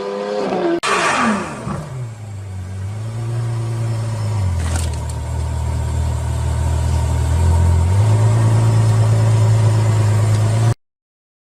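Car engine revving briefly, cut off abruptly about a second in, then a falling engine note settling into a steady low hum. The hum's pitch drops about four and a half seconds in and comes back up about eight seconds in, then stops abruptly near the end.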